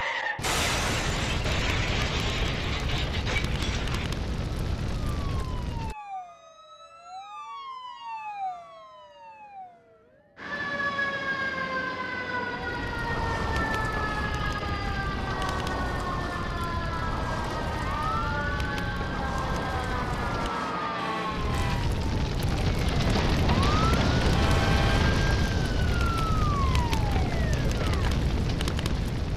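Emergency vehicle sirens wailing, several rising and falling together, over a loud rushing rumble. The rumble drops away about six seconds in, leaving only the crossing siren wails, and comes back loud about four seconds later with a slowly falling siren tone and further wails.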